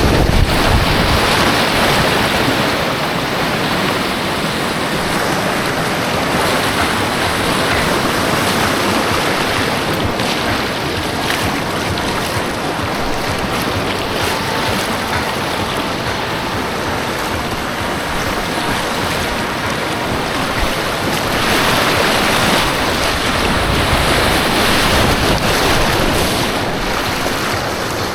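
Rushing white water on an artificial white-water course: a loud, steady rush that swells briefly about a second in and again near the end.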